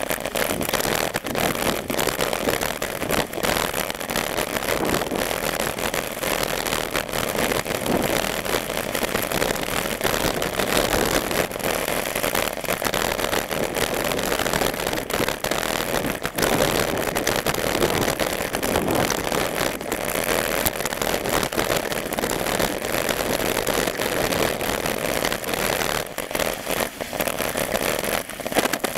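Steady riding noise of a moving bike, with rushing and crackling from the wind and the road.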